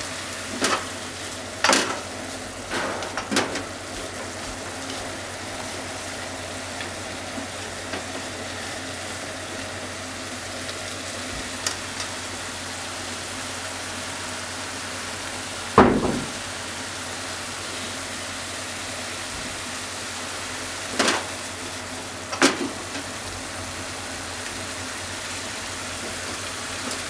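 Bean sprouts and minced chicken stir-frying in a frying pan with a steady sizzle. A few sharp knocks of the stirring utensil against the pan come near the start, once loudly about halfway through, and twice more later.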